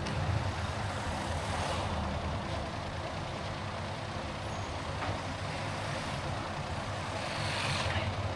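Car driving in city traffic: a steady engine and tyre rumble with road hiss, and a brief louder hiss near the end.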